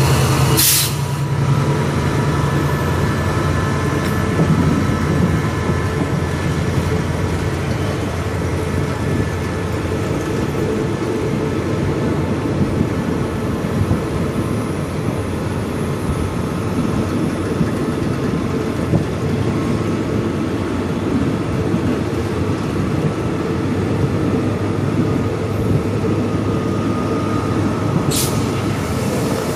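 Steady rumble of a diesel-hauled train running along the track, with the locomotive's engine humming low at the start. There is a short hiss about a second in and two more near the end.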